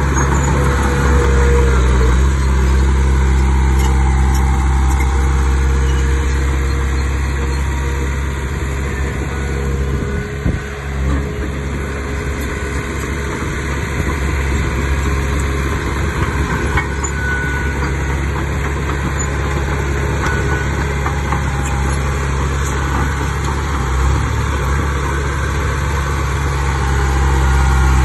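Bulldozer's diesel engine running steadily, a deep, even engine note with a slight dip about ten seconds in.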